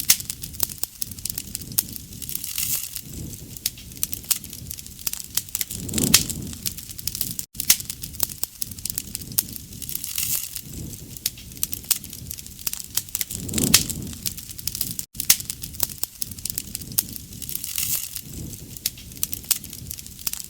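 Wood campfire crackling and popping continuously, with a soft low whoosh of flame about every four seconds. Two brief drop-outs break the sound partway through.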